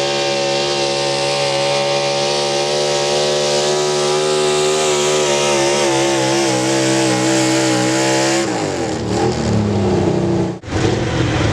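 A pulling truck or tractor engine run flat out under load, holding a steady high pitch. About eight and a half seconds in it comes off the throttle and the pitch falls away. The sound cuts out for a moment near the end.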